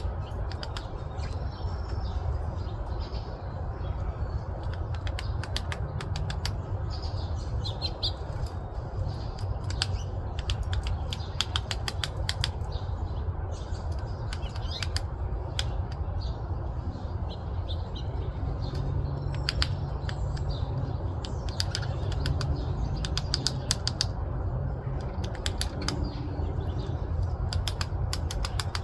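Downy woodpecker pecking at wood: short clusters of sharp taps come every few seconds over a steady low background rumble, with a few faint high chirps.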